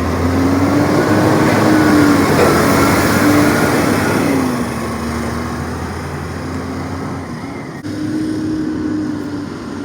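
Garbage truck engine running as the truck drives along, its pitch rising and falling with gear changes. It grows loudest about two seconds in and then slowly fades.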